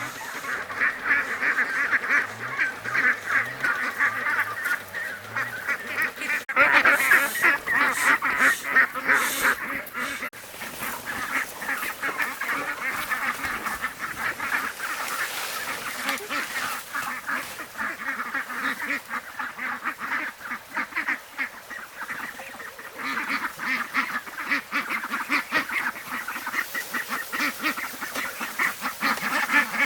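A flock of domestic ducks quacking continuously, many birds calling over one another, with a louder, busier stretch about six to ten seconds in.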